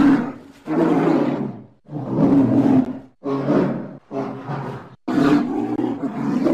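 Polar bear growling: six loud, rough growls in quick succession, the last one cut off abruptly.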